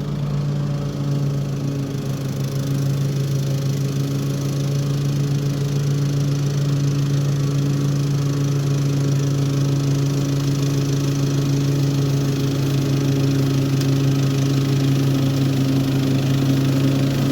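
Toro HDX 30-inch self-propelled walk-behind mower with a mulching kit, its engine running steadily while mowing, growing slightly louder.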